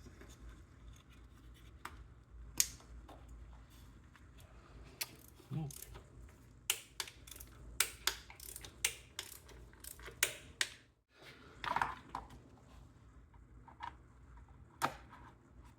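Hand tools and engine parts being handled during engine reassembly: a series of sharp clicks and light knocks, coming about two a second through the middle stretch, over a low steady hum.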